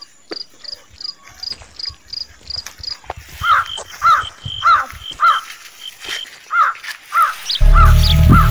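Bird calls: a quick run of short, high notes for the first three seconds, then a lower, arched call repeated about twice a second. Loud music with a heavy bass comes in about seven and a half seconds in.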